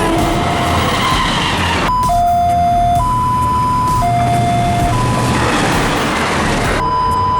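Railway level-crossing warning alarm sounding two alternating notes, high then low, about a second each, over the rushing noise and low hum of a passing train.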